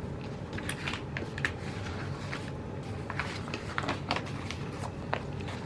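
Paper handling: scattered soft clicks and rustles of stickers being peeled and pressed onto planner pages, over a steady low hum.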